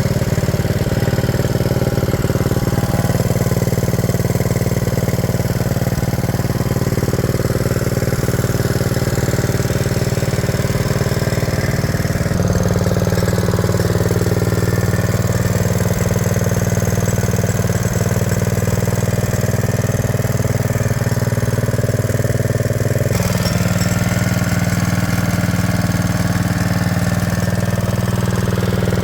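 Small single-cylinder engine running steadily at idle, its pitch stepping slightly higher at two abrupt changes, about twelve seconds in and again about twenty-three seconds in.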